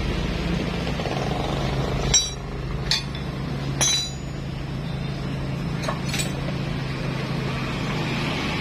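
Metal tools and engine parts clinking against each other as a motorcycle engine is put together: about five short, sharp clinks, the loudest about two seconds in, over a steady low hum.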